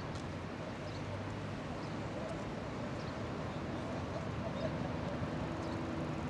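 Distant steady drone of a US Air Force C-130 Hercules's turboprop engines, with low crowd chatter in the background.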